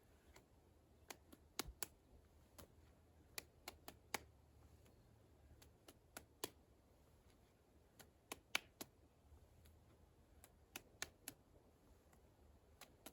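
Hands slapping a small D-Ball medicine ball back and forth between them: sharp, faint slaps, mostly in quick clusters of two or three, a second or two apart.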